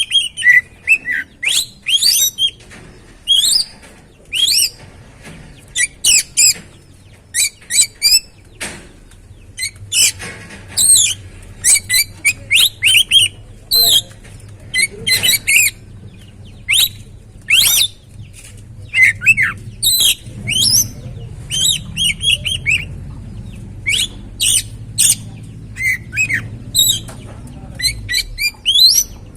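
Oriental magpie-robin (kacer) singing: a fast, varied run of short whistles and sharp chirps with brief pauses between phrases, over a faint low hum.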